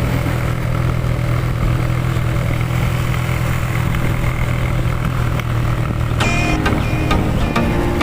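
A motor vehicle's engine running steadily with a low hum; short pitched sounds come in over it about six seconds in.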